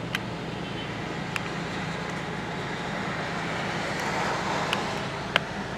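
Steady road traffic noise with a low hum, swelling as a vehicle passes about four seconds in, with a few small clicks.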